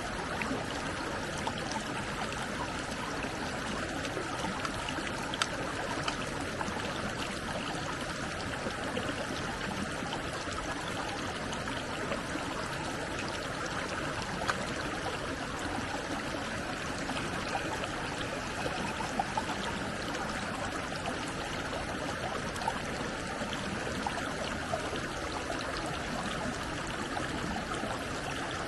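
Stream water flowing steadily, with a few faint ticks now and then.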